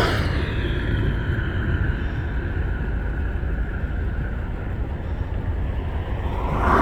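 Boeing CH-47F Chinook tandem-rotor helicopter heard as a steady low rumble from its rotors and twin turboshaft engines, with a brief swell near the end.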